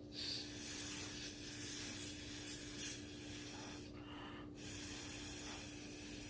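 Breath blown through a drinking straw across wet acrylic pour paint: an airy hiss that breaks off briefly about four seconds in, then resumes.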